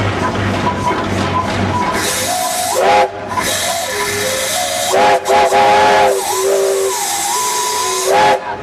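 The steam whistle of a 1914 Port Huron 19 hp steam traction engine, blown in a series of blasts starting about two seconds in. Several tones sound together over a rush of steam hiss, and the loudest blasts come near the middle, with short breaks between them.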